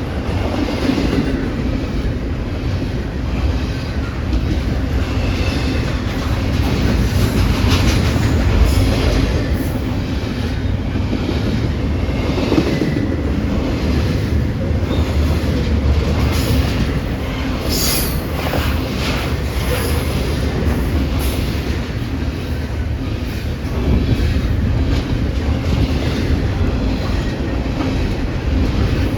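CPKC freight train's cars rolling past: a steady low rumble of steel wheels on rail, with scattered brief wheel squeals and clacks over it.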